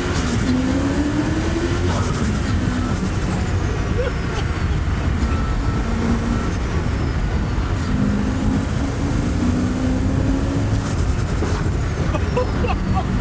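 Turbocharged V8 of a modified TVR Chimaera pulling hard on medium boost, about 7 psi, with a high turbo whistle over the engine note. The engine note climbs and breaks off about two seconds in. A second pull from about eight seconds has the whistle rising and then falling away near eleven seconds.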